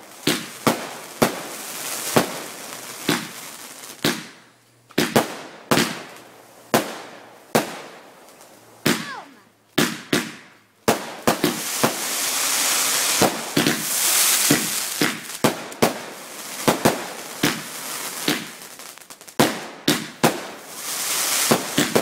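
Garden fireworks going off: a long run of sharp bangs, some in quick succession, with a stretch of dense crackling hiss in the middle.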